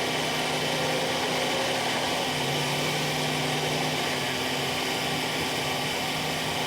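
Bulldozer engine running steadily, an even mechanical hum with a constant low drone.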